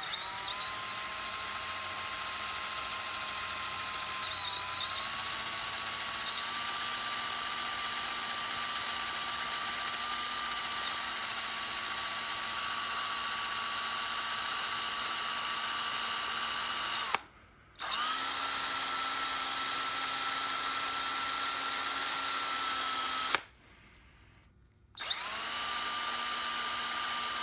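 Power drill spinning a wire brush against the metal edges of mortise lock parts: a steady motor whine over a scratchy hiss. The drill stops briefly about two-thirds through and again for a couple of seconds near the end, spinning back up each time.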